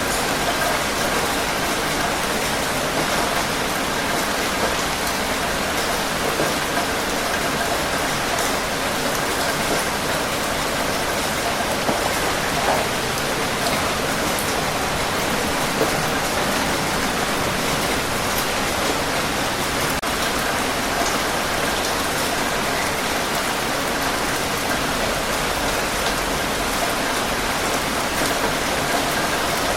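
Steady heavy rain falling on surfaces, a dense even hiss with many small drop ticks throughout.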